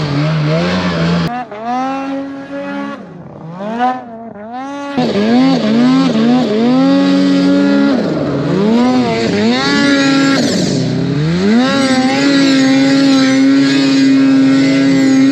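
Snowmobile engine revving hard, its pitch rising and falling again and again, then held at one steady high pitch for the last few seconds.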